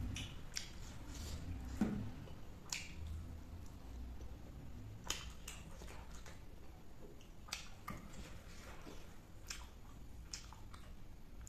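Close-up eating sounds: a person chewing with her mouth, making irregular soft wet clicks and smacks, while her fingers mix rice on a banana-leaf plate.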